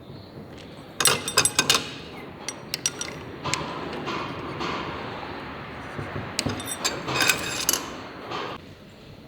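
Metal tools and motorcycle engine parts clinking and clattering during engine work, in quick runs of sharp clicks about a second in and again near the end, over a steady rushing noise through the middle.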